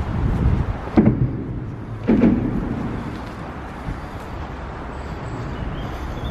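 Strong wind buffeting the camera's microphone as a steady low rumble, with two louder gusts or knocks about one and two seconds in.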